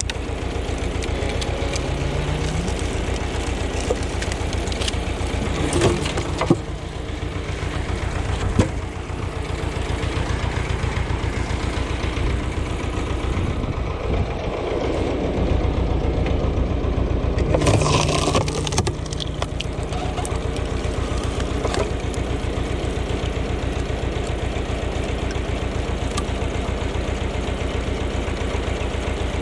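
Ursus tractor engine running steadily with an even pulsing beat, with a few sharp knocks about a third of the way in and a louder, rougher stretch about two-thirds in.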